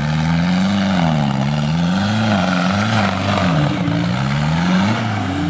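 Off-road 4x4 vehicle engine revving up and down repeatedly, its pitch rising and falling about once a second.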